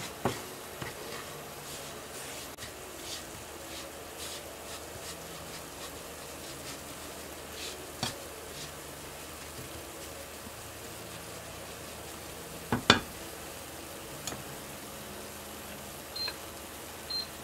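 Breadcrumbs and sugar frying in a pan with a steady, low sizzle. A spoon scrapes and knocks against the pan now and then, with the sharpest knocks about three-quarters through.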